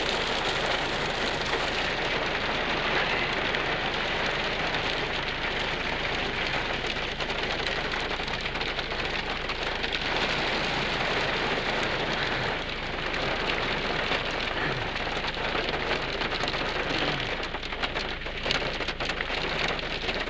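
Heavy rain falling steadily onto rocky desert ground awash with muddy runoff, an even hiss of rain on wet stone and water.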